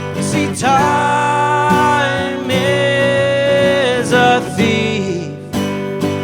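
Live acoustic song: a singer holds long, bending sung notes over a strummed acoustic guitar, with the guitar alone near the end.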